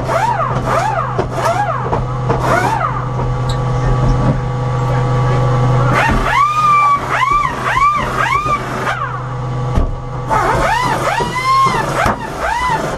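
Audi S3 race car sitting with its engine idling, a steady low hum. Over it come runs of short squeals that rise and fall in pitch, several a second, in three groups.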